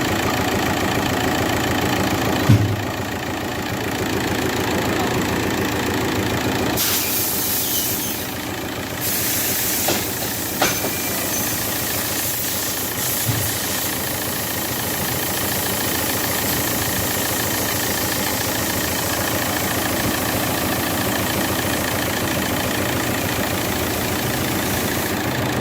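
TDI diesel engine idling steadily, with a few single knocks and a hiss that grows louder about seven seconds in. The sound is presented as a sign of lost compression from high mileage or a damaged piston ring.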